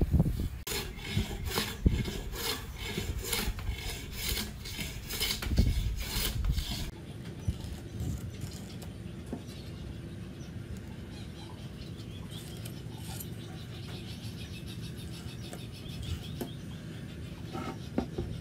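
A hand tool working wood in rhythmic back-and-forth rasping strokes, about two and a half a second. About seven seconds in it cuts off and is followed by a quieter, steadier stretch of light scraping.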